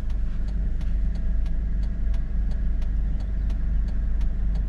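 Car driving at road speed, heard from inside the cabin: a steady low rumble of engine and road noise, with faint, regular clicking about three times a second.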